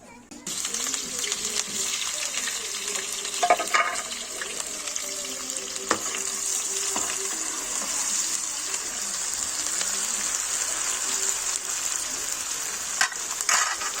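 Food frying in hot oil in a pan: a steady sizzle with scattered crackles, starting abruptly about half a second in and cutting off sharply at the end.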